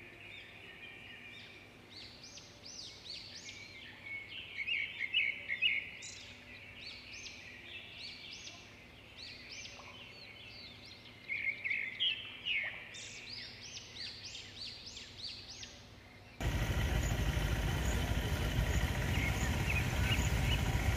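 Birds calling, a busy chorus of many short, repeated chirps. About three-quarters of the way through, the sound cuts abruptly to a loud, steady noise.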